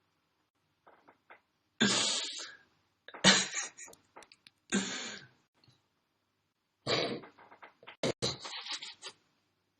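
A person coughing in several harsh fits, about five bursts spread a second or so apart.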